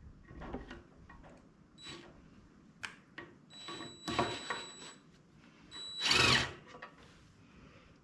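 A handheld power tool such as a cordless drill-driver runs in two short bursts with a steady whine, the second burst the loudest, among scattered clicks and knocks of tool work.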